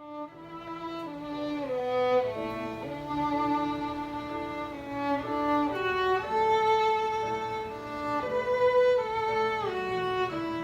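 Violin playing a slow, legato melody of long held notes, some joined by slides in pitch; it comes in at the very start after a near-silent moment.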